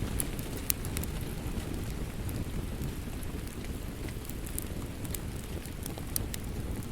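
Wood fire crackling: scattered sharp pops and snaps over a steady low rush.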